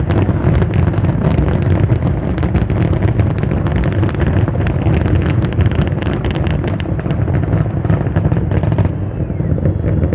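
Dense fireworks barrage: a continuous rapid rumble of bangs and crackles that thins out abruptly about nine seconds in.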